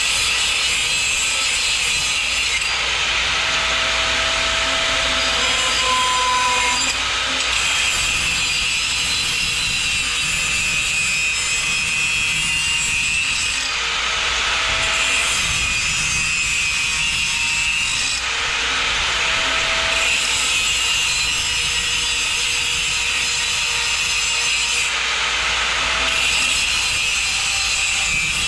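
A saw cutting mild-steel exhaust tubing, running steadily with brief changes every few seconds as the cut goes on.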